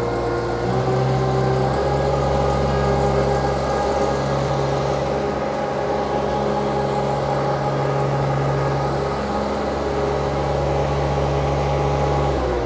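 Compact stand-on skid steer's diesel engine running steadily at high throttle while working its boom, bucket and travel hydraulics together. The engine note steps up slightly about half a second in and then holds.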